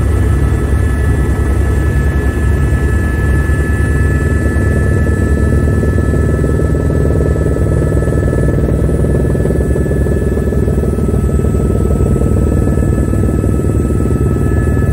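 Helicopter cabin noise in cruise flight: a loud, steady rotor beat and engine rumble, with a few steady high whining tones over it.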